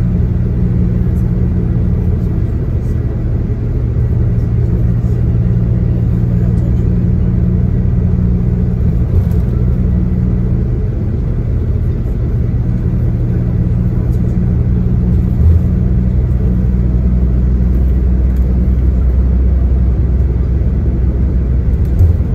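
Bus engine running under way, heard from inside the passenger cabin with a steady hum and road rumble. The engine note drops lower about sixteen seconds in, and a few brief thumps come through from the road.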